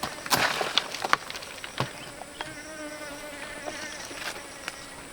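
A flying insect buzzing near the microphone in a steady, slightly wavering hum, with a few sharp clicks and rustles in the first couple of seconds.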